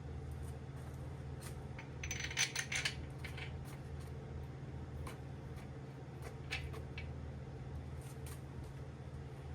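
Light metallic clinks and clicks of a main bearing cap and its bolts being handled and set onto the engine block, a dense cluster about two to three seconds in and single clicks after, over a steady low hum.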